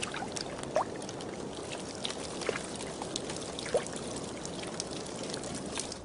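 Running water trickling and gurgling steadily, with scattered small drips and splashes.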